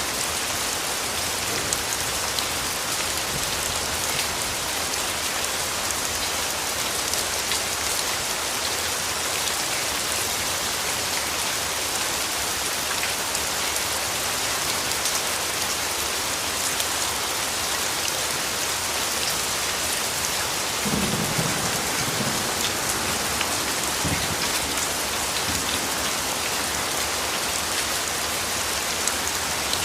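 Steady rain falling, an even hiss of many drops. About two-thirds of the way through comes a brief low rumble of distant thunder, with a smaller one a few seconds later.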